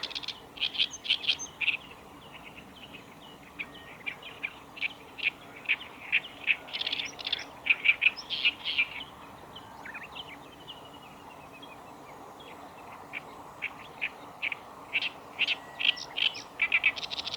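Black-browed reed warbler singing: rapid runs of short high notes in bouts, with a lull of a few seconds midway.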